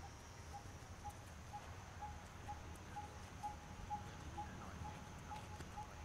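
A bird repeating one short, single-pitched note about twice a second, steady and even, over a low continuous rush of surf.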